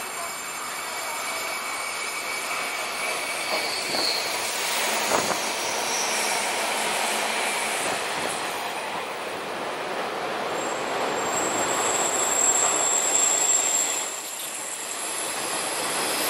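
Hanshin 8000-series electric trains passing close by, their steel wheels rumbling on the rails. Short high wheel squeals sound in the first part, and a thin, high, steady whine is held for a few seconds in the second half.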